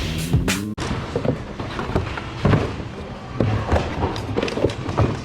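A music track cuts off abruptly under a second in, giving way to irregular knocks and thumps of goods being pushed around and dropped in thrift-store bins.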